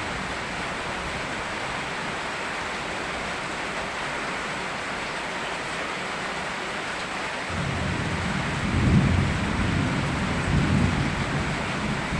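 Steady hiss of falling rain. About two-thirds of the way in, a low rumble of thunder rolls in and swells twice before easing.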